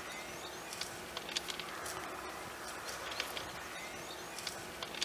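Small birds chirping in short, high notes, scattered irregularly with a few brief rising whistles, over a steady outdoor background.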